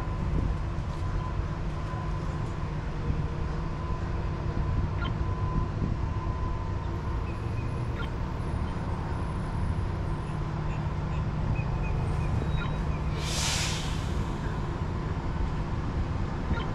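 Steady rumble and hum of a SunRail commuter train, heard from inside a passenger car, with a few faint clicks and a short hiss about three-quarters of the way through.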